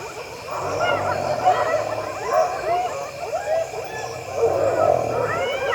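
A pack of spotted hyenas calling at once, many short calls overlapping that rise and fall in pitch, as they mob a lion at its kill to try to chase it off the prey.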